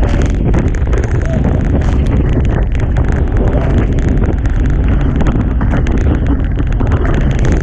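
Strong wind buffeting the microphone in a steady, loud rush aboard a Hobie Tiger catamaran sailing at speed in gale-force wind, with the hulls' rush through the water mixed in.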